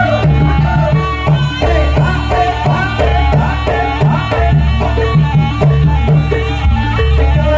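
Loud jaranan dance accompaniment: a traditional East Javanese ensemble with hand drums and a steady, pulsing low beat under a melody line.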